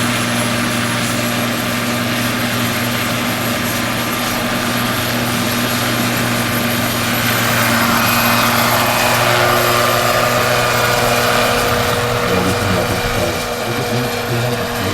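Turbine-powered scale model helicopter (Agusta AW109 K2, 3.1 m rotor) running, with a steady high turbine whine over the rotor and engine hum. It swells louder for a few seconds past the middle.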